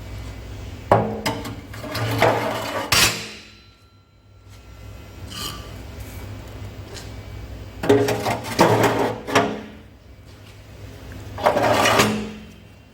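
Three bursts of clattering knocks mixed with scraping, each lasting a second or two, with a quiet gap of several seconds after the first.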